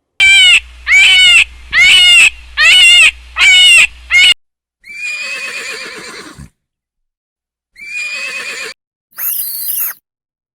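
Farm animal calls: five short, loud calls in quick succession, then three longer, quieter calls.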